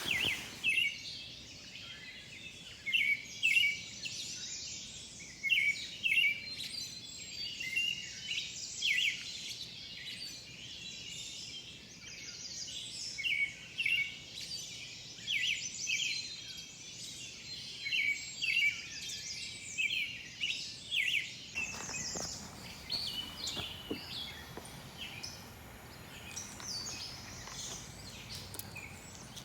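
Several songbirds singing, with many short chirps and trills overlapping. About two-thirds of the way through, a steady rushing hiss comes in under the birdsong.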